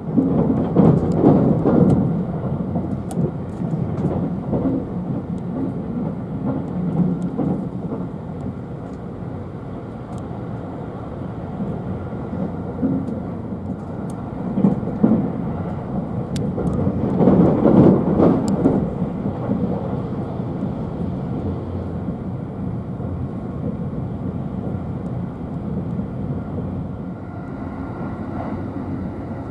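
Running noise heard inside a JR 271 series Haruka limited express car: a steady low rumble of the wheels on the rails, swelling twice, about a second in and again around eighteen seconds in, with a few faint clicks.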